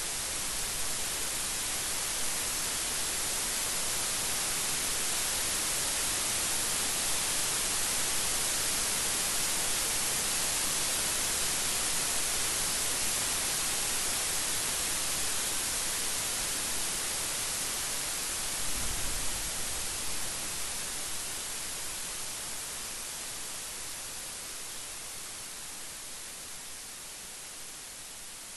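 Steady rain falling, a dense, even hiss, with one brief low rumble about two-thirds of the way through; the rain eases slightly near the end.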